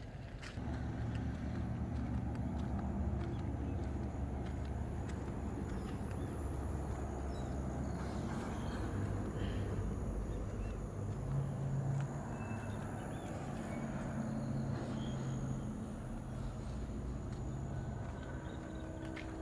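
Motor vehicle engine running, a steady low hum whose pitch shifts about halfway through.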